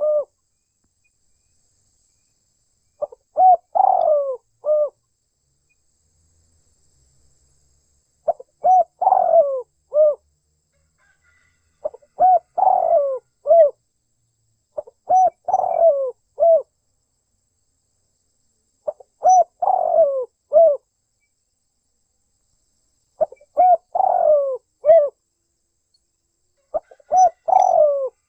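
Spotted dove (tekukur) cooing: a phrase of several short coos, repeated seven times at intervals of three to four seconds.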